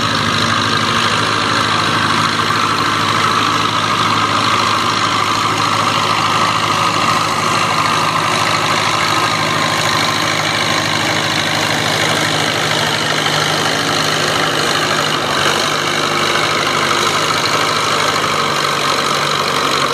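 Diesel engine of a farm pulling tractor running loud and steady, with no rise or fall in pitch.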